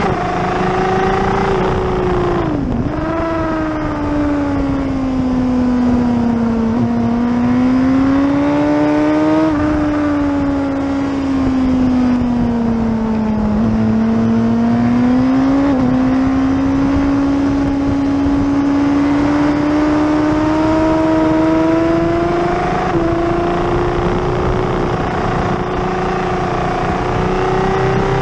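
Suzuki sport bike's engine running hard on a race track, heard from an onboard camera with wind rush. The engine pitch drops sharply about three seconds in, dips and rises again through the middle, and climbs steadily over the last third.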